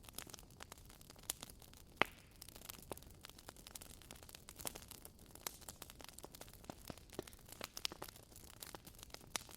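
Wood bonfire crackling: irregular sharp crackles and pops over a faint hiss, with one louder pop about two seconds in.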